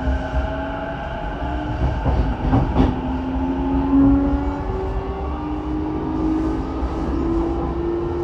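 Saikyo Line electric commuter train running, heard from inside the car: a steady low rumble of wheels on rail under the traction motors' whine, which rises slowly in steps as the train gathers speed. A couple of sharp rail clacks come a little under halfway through.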